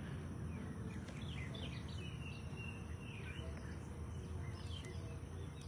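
Several birds chirping in short calls over a steady low background noise outdoors.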